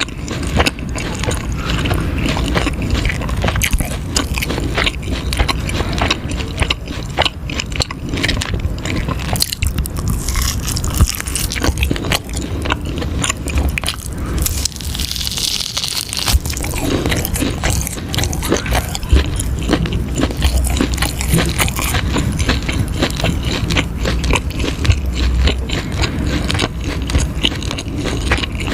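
Close-miked biting and chewing of crunchy cheese ribs: a steady run of crunches and wet clicks, with a short let-up about halfway through.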